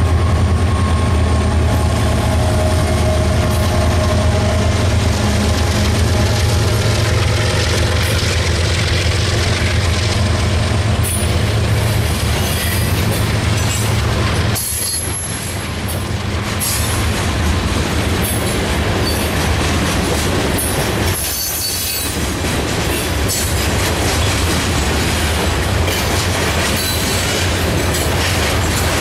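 A Kansas City Southern diesel locomotive passes at the start, its engine droning low, followed by a long string of covered hopper cars of a grain train rolling by with a steady rumble of steel wheels on rail. The loudness dips briefly twice midway.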